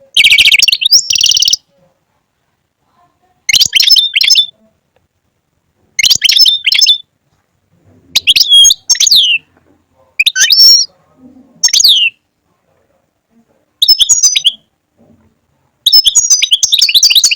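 European goldfinch singing: about eight short, bright twittering phrases of around a second each, separated by silent gaps of one to two seconds.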